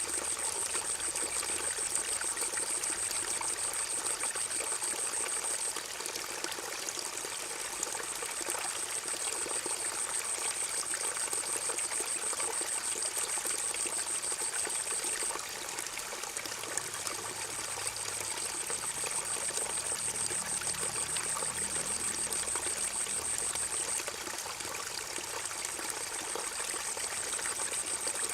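Forest river water running in a steady rush. A high-pitched buzz sits over it, breaking off three times and coming back each time.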